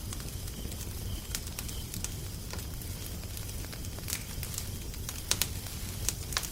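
Wood fire crackling: irregular sharp pops and snaps, the loudest pair a little after five seconds in, over a steady low rumble.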